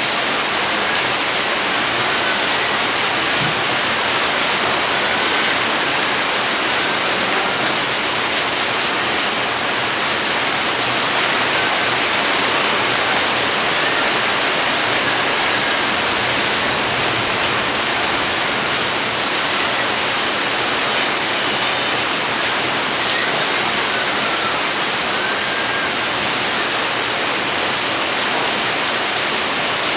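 Heavy rain falling steadily, a dense even hiss, with a few faint high chirps now and then.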